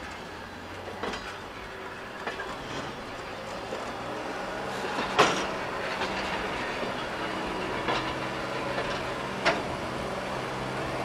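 A train rolling along the track and getting steadily louder, with sharp clacks of wheels over rail joints at uneven intervals, about five in all. A steady low engine drone builds from about halfway through.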